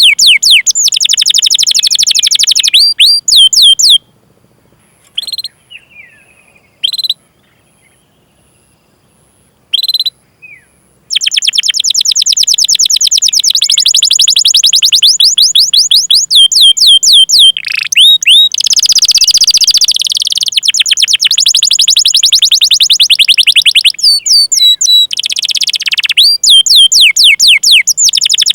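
Domestic canary singing: fast runs of repeated high, downward-sweeping chirps and dense rolling trills. About four seconds in it falls almost silent apart from three or four single chirps, then takes up a long, unbroken roll again about eleven seconds in.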